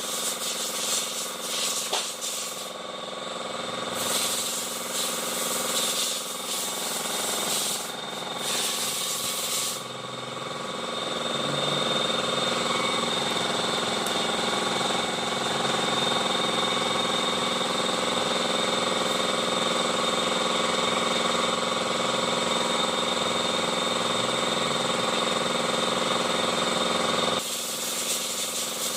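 Honda i-DSI car running, a continuous mechanical sound of steady whining tones over a grinding noise, from a car with a grinding fault inside its automatic transmission. The sound shifts about ten seconds in and again near the end.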